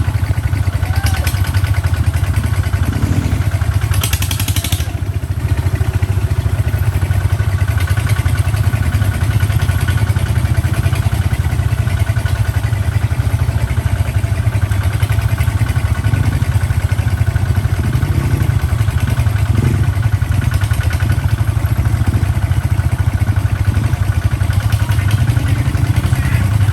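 Kubota tractor's diesel engine running steadily under load while hauling sand on a road, with a brief hiss about four seconds in.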